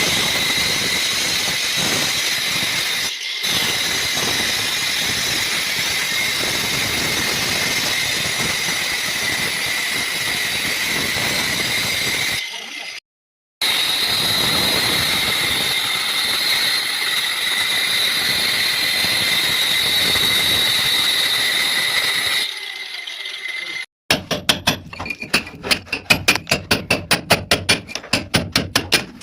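Electric power cutter grinding a groove into a wall for a pipe: a steady whining grind, with two brief breaks. Near the end it stops and gives way to rapid hammer strikes, about five a second.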